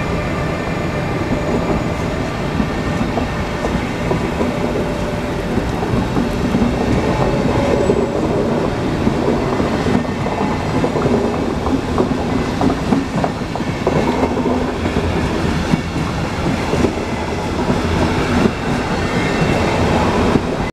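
Train running on the rails, its wheels clicking over rail joints, with a steady whine that fades after the first few seconds.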